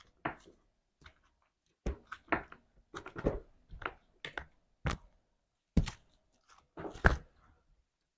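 Slime being squeezed and poked, making an irregular run of sticky clicks and wet pops that stop shortly before the end.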